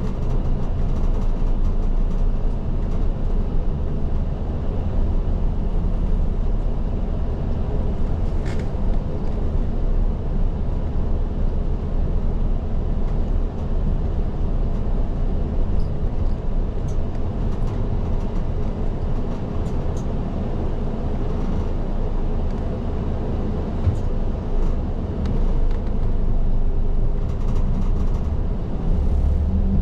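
Isuzu Erga city bus driving, heard from inside at the front: a steady diesel engine rumble and road noise, with a few faint clicks and rattles.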